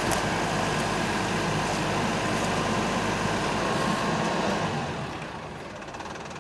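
A heavy engine running steadily under load, then easing to a quieter, lower run about five seconds in.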